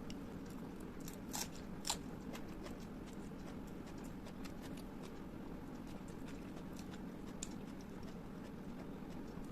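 Close-miked eating: chewing with scattered sharp mouth clicks and crunches, the loudest two about one and a half to two seconds in and another near the end, over a steady low hum.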